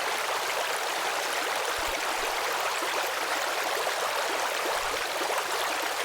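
Flowing stream: an even, steady rush of running water.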